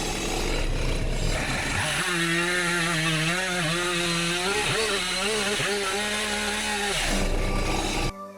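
Chainsaw running at high revs and cutting wood, its pitch dipping and wavering under load. It cuts off abruptly near the end.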